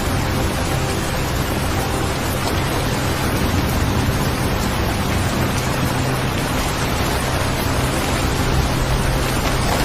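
Steady rain ambience, an even hiss of falling rain with no breaks, over a low steady drone.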